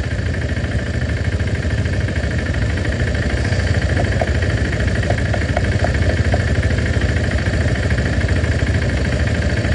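Motorcycle engine running steadily at low revs, a low even rumble.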